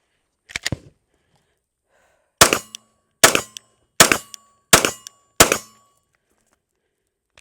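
A Glock 47 9mm pistol fired five times, one shot roughly every three-quarters of a second. A couple of sharp clicks come about half a second in, before the first shot.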